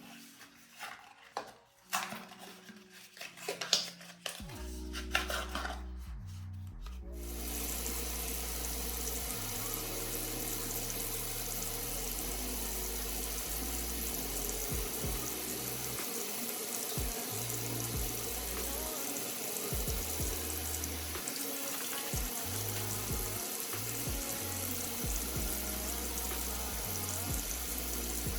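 A tap running steadily into a sink from about seven seconds in, after a few seconds of clattering and handling knocks, with background music carrying a bass line underneath.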